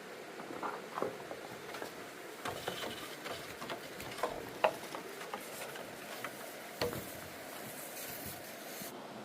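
Irregular light clicks and knocks over a faint hiss, with two louder knocks a little before halfway and about three-quarters through: hard objects being handled by hand.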